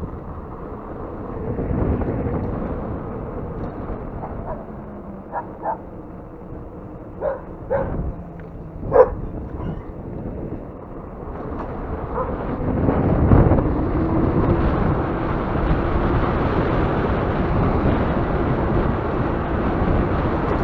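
Wind buffeting the microphone and ride noise from a high-power electric dirt bike on a test ride, with a dog barking a few times in the first half. From about twelve seconds in the noise grows louder and a steady motor whine runs under it as the bike picks up speed.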